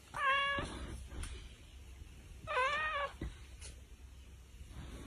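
A cat meowing twice, each meow about half a second long, the second about two and a half seconds after the first.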